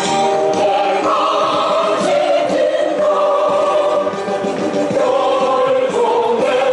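Many voices singing a song together in long held notes, with music.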